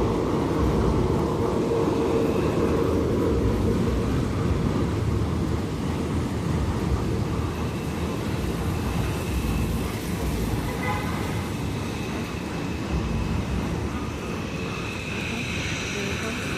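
A subway train running past with a steady low rumble that slowly fades as it moves away, with a faint high squeal near the end.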